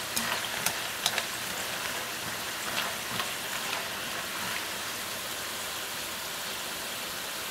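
Potato strips deep-frying in hot oil in a wok: a steady sizzle with scattered pops and crackles, more of them in the first half. This is the final minute of the second fry on raised heat, which forces the oil out to crisp the fries.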